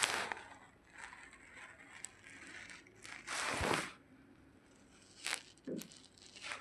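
Irregular bursts of rustling and crunching, the loudest at the start and about three and a half seconds in, with shorter ones near the end.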